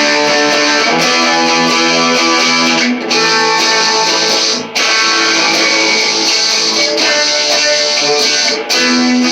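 Two-pickup electric guitar played through an all-tube amp with both pickups and tone all the way up, strumming sustained rock chords in a gritty rock tone, with short breaks at the chord changes about three and five seconds in and near the end.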